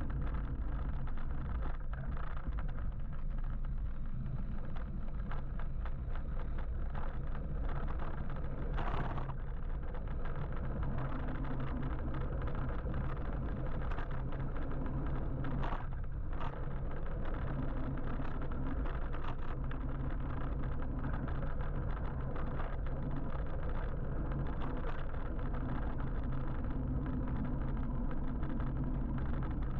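Steady low rumble of road and traffic noise heard from an electric motorbike riding through city traffic, with two brief hissing sounds about nine and sixteen seconds in.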